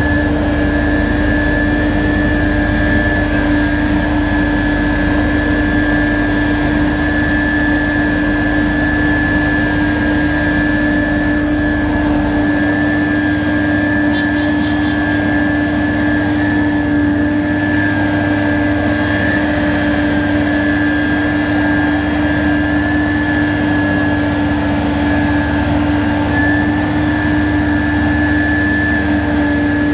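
Heavy road-construction machinery engine running steadily, with a constant drone and a high whine. The deepest rumble drops away about 12 seconds in.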